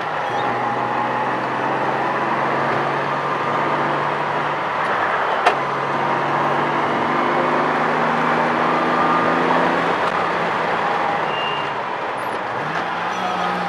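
Inside the cabin of a 1978 Datsun 280Z, its straight-six engine pulls steadily up a grade. The revs drop right at the start as it shifts up, ease off about ten seconds in, then climb sharply near the end. There is a single sharp click about five seconds in.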